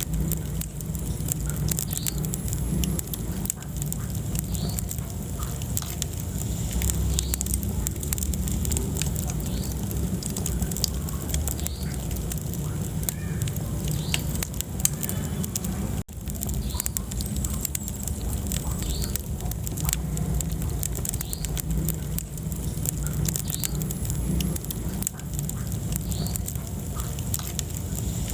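Wood fire burning in a fireplace: many sharp crackles and pops over a steady low rumble of the flames, with a very brief break about halfway through.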